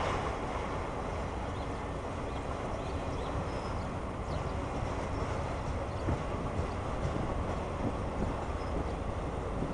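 Freight train of autorack cars rolling past: a steady rumble of steel wheels on the rails, with a few scattered light clicks and clunks.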